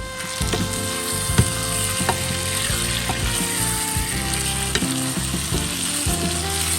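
Food frying in a pan, a steady sizzling hiss, over background music; the sizzle cuts off suddenly at the end.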